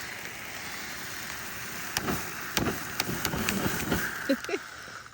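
Battery-powered smoke bubble gun running with a steady whirring hiss, with several clicks and knocks of handling. The hiss cuts out near the end.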